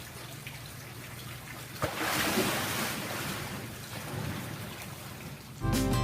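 Steady rushing water noise that swells louder just after a click about two seconds in, then eases. Music comes in near the end.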